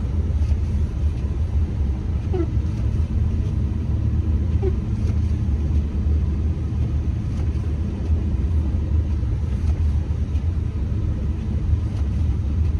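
Steady low rumble of a truck driving slowly on a snow-covered road.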